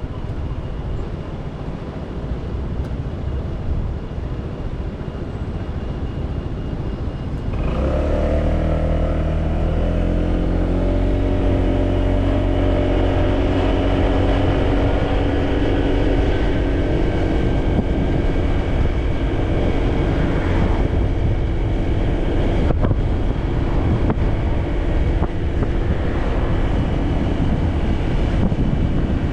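Motorcycle engine and road noise on a bike-mounted action camera. For the first few seconds there is only a rumbling rush. About a quarter of the way in, the engine note comes up louder and clearer as the bike pulls, then runs steadily under way.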